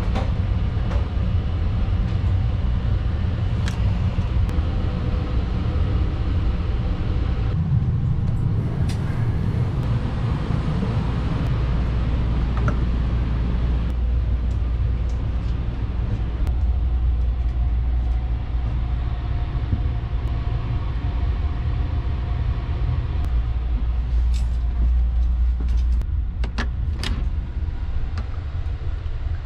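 Steady low rumble inside a car of the Sunrise Seto sleeper train, with a few light clicks and knocks now and then.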